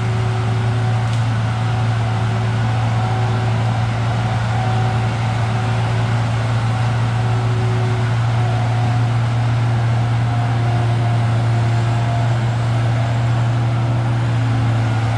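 A heavy machine's diesel engine running at a steady speed: a constant low drone, with faint higher whining tones coming and going above it.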